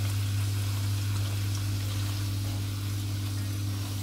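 Fry bread dough sizzling in hot oil in a pan: a steady crackling hiss with a few faint ticks. A steady low hum underneath is the loudest part.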